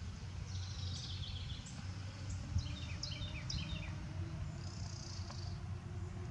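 Outdoor ambience: a songbird sings several short phrases of high chirps, one of them a quick run of falling notes, over a low steady rumble.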